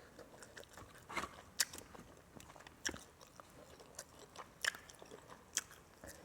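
A person eating, with faint crunchy chewing and bites: scattered crisp clicks at irregular intervals, about five of them louder than the rest.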